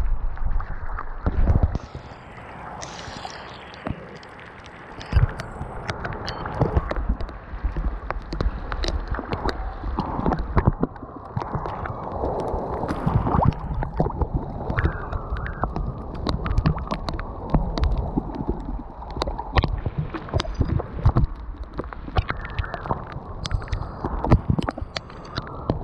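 Water gurgling and dripping, broken by many irregular taps and knocks.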